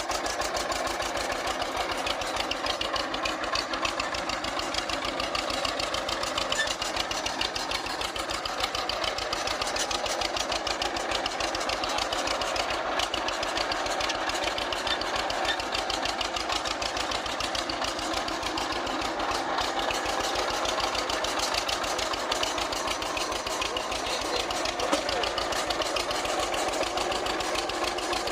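Old engine running steadily, with quick, even firing beats.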